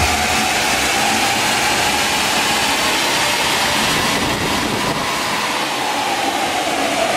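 Mitsubishi Pajero Sport Dakar running on a chassis dynamometer: a loud, steady rushing noise with a single whine that dips, climbs again and falls away near the end.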